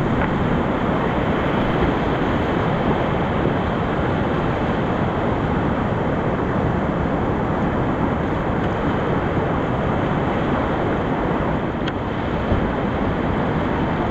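Whitewater rapids of a mountain river rushing steadily.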